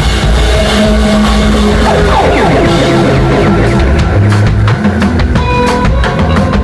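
A live rock band playing loudly, with drum kit, guitar and bass. A few pitch glides come about two seconds in, and the drum hits stand out more sharply in the second half.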